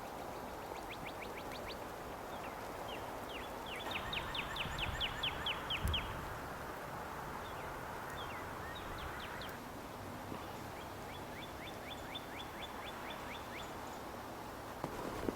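A small songbird singing: four quick trills, each a fast run of short down-slurred notes, with short gaps between them. A steady hiss lies underneath.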